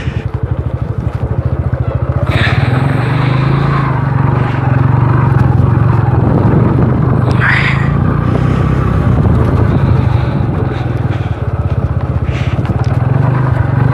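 Yamaha YBR motorcycle's single-cylinder engine running steadily at low speed over a rough rocky track, getting a little louder about two seconds in, with a few brief rattles and scrapes from the bike over the stones.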